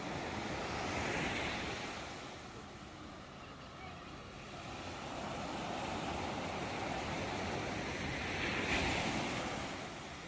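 Ocean waves breaking and washing on a shore, swelling twice with a lull in between.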